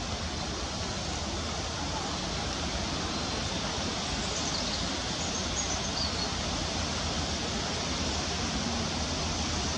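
Steady rushing outdoor background noise, with a few faint high bird chirps about four to six seconds in.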